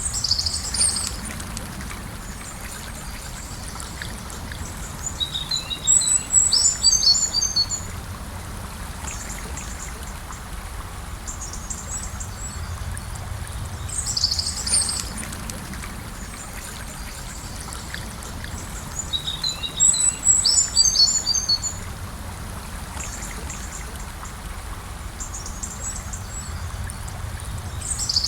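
A gentle river flowing steadily, with a songbird singing over it: short phrases of high chirps that come back about every fourteen seconds.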